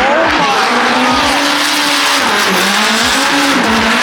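Drift car engines running at high revs with tyres squealing as the cars slide past; the engine note dips about two and a half seconds in and climbs again.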